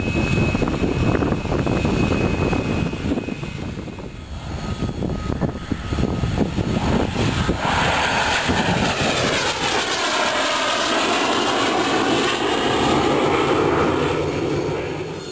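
Departing fixed-wing aircraft running loud and close: a rough rumble at first, then from about halfway a rushing whoosh that sweeps down and back up in pitch as the aircraft passes by.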